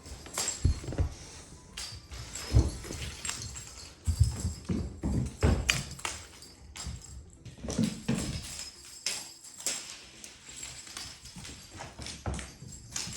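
Irregular soft thumps and knocks, scattered unevenly and more frequent in the first half.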